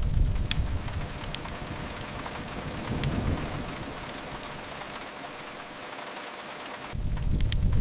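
Steady rain with scattered sharp crackles of a wood fire. Under it runs a low rumble, strong at the start, fading out past the middle and swelling back near the end.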